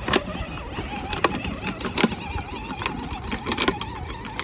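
Small ride-on tractor being driven over rough ground: a wavering whine with irregular rattles and knocks over a low rumble.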